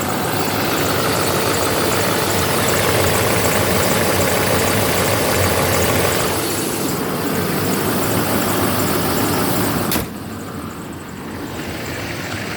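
2007 GMC Sierra 2500HD's 6.6-litre Duramax diesel V8 idling steadily shortly after a cold start. A single sharp knock comes about ten seconds in, after which the engine sounds quieter.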